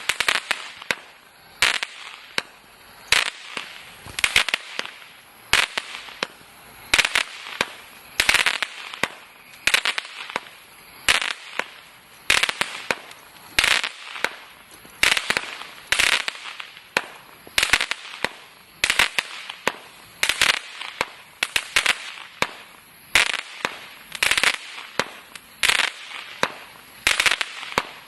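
"Crackling Wood" firework going off: a sharp bang about every second and a half, each followed by a dense burst of crackling, repeating about twenty times.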